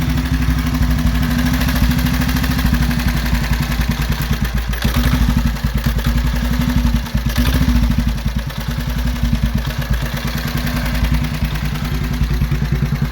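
Vintage 1930s Benelli motorcycle engine with gear-driven valve gear, idling steadily and blipped up a couple of times, about five and seven and a half seconds in. It sounds good.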